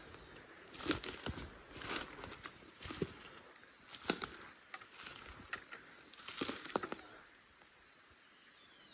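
Footsteps through dense woodland undergrowth: irregular snapping of twigs and crackling of dry leaves and brush, with a faint high bird call near the end.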